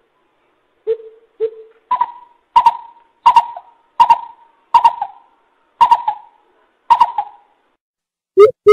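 Coucal hooting: two soft hoots, then a run of seven louder hoots spaced a little under a second apart.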